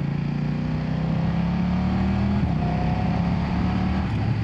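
The 895cc parallel-twin engine of a BMW F900R motorcycle under way, rising in pitch as it pulls through a gear, with a drop in pitch about two and a half seconds in as it shifts up, then pulling again.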